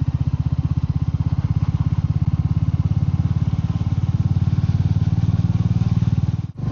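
Royal Enfield Meteor 350's single-cylinder engine running steadily under way, a fast even beat of exhaust pulses. The sound cuts out briefly near the end.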